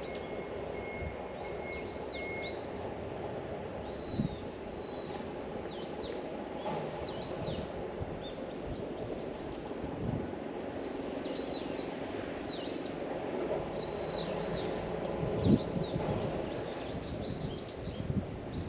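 Small birds calling outdoors, short arched chirps repeated every second or two, over a steady background hum of outdoor noise.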